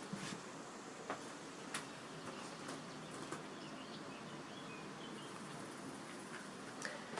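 Quiet background hiss with a few soft clicks and some faint, distant bird chirps about the middle.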